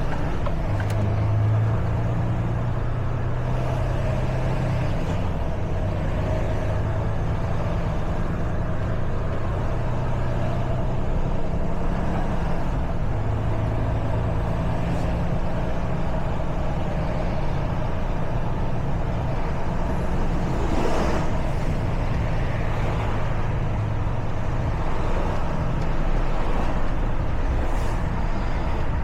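Truck's diesel engine running steadily under way, with road noise. There is a brief burst of hiss-like noise about two-thirds of the way through and a fainter one near the end.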